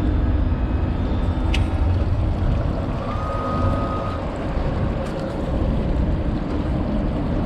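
Yamaha Luxia boat's engine running steadily with a low rumble. A sharp tick comes about a second and a half in, and a brief thin tone sounds for about a second near the middle.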